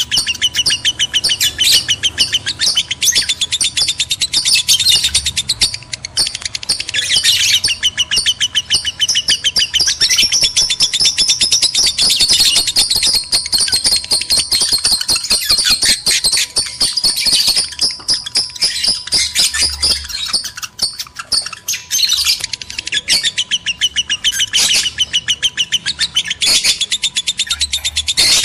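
Male and female lovebirds in breeding condition chattering: a dense, unbroken run of rapid, high chirps and squawks, easing briefly about twenty seconds in.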